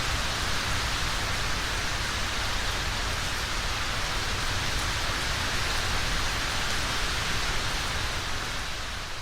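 Steady rain falling, an even hiss of many drops, fading down near the end.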